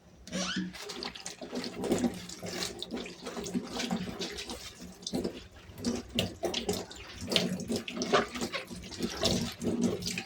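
Tap water running into a sink, with splashing and the knock and clatter of things being washed under it. It starts suddenly.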